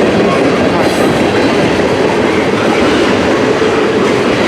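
Long CN mixed-freight train rolling past close by: a loud, steady rumble of its wheels on the rails.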